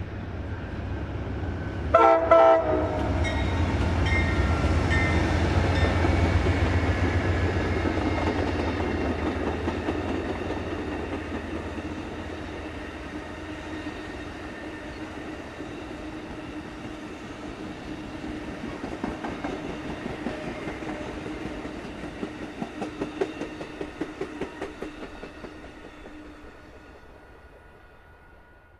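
Train passing close by: a short blast of the locomotive horn about two seconds in, then a deep locomotive rumble that swells and slowly fades under a steady tone. Near the end comes a run of clickety-clack from wheels over the rail joints, dying away.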